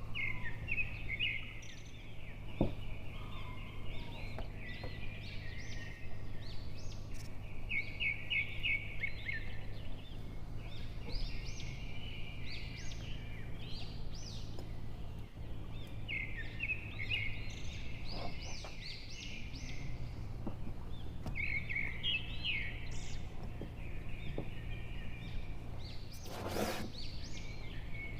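Small birds chirping in repeated quick trills over a steady low hum, with a brief rustling knock near the end.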